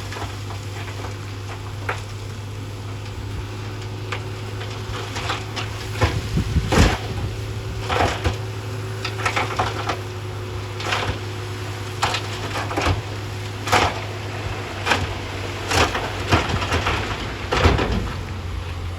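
Heavy earthmoving machine's diesel engine running steadily under irregular knocks and clatters of rocks striking and grinding together, roughly one a second.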